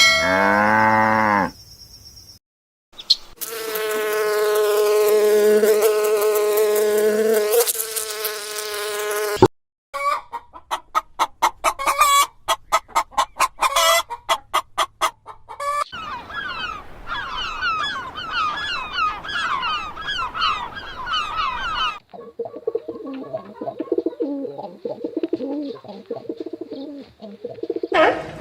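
A run of separate animal-call recordings with abrupt cuts between them. A long held call comes first, then a rhythmic series of calls about two a second, then a flock of birds chirping and clucking over each other, and last lower warbling calls over a background hiss.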